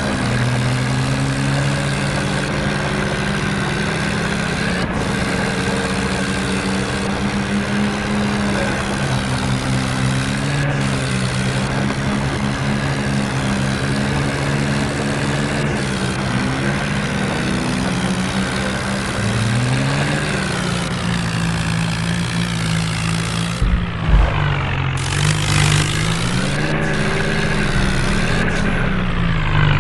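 Several tractor diesel engines running under heavy load, their pitches stepping and gliding up and down as engine speed changes. A short louder burst of noise comes near the end.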